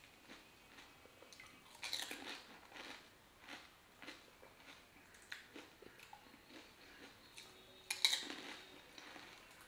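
A woman chewing and biting into pani puri: crunching of the crisp fried puri shells with small mouth clicks. The loudest crunches come about two seconds in and again about eight seconds in, as a whole puri goes into her mouth.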